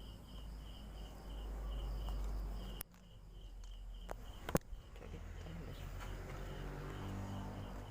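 Night insects chirping in a steady high pulse, about four or five chirps a second, over a low rumble. Two sharp clicks cut in near the middle, the second one louder.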